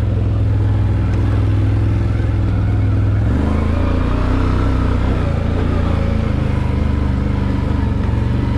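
Off-road vehicle engine running steadily at low speed, its note changing about three seconds in.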